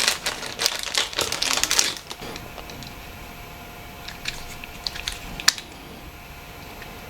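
Small parts of a Nokia 8910i being handled and pressed into its new body shell: a quick run of small clicks and rustles for about two seconds, then a few sharp, isolated clicks.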